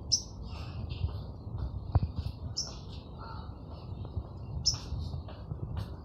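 A small bird chirping: short, high calls about every two seconds, with softer twittering between them, and a couple of sharp knocks.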